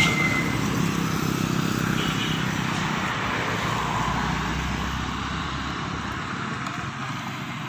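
Heavy diesel truck engine running as the truck passes, slowly fading away.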